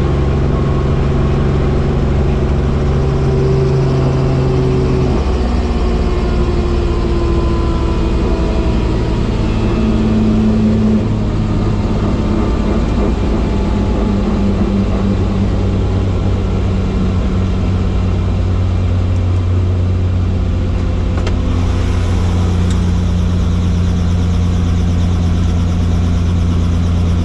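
Helicopter running: a loud, steady low drone with several held tones that shift in pitch a few times.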